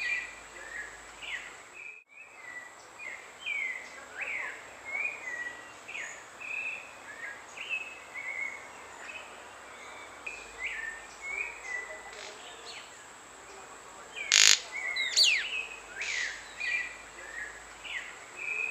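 White-collared manakin calling: a steady run of short chirps, several a second, many of them falling in pitch, with one loud sharp snap about three-quarters of the way through.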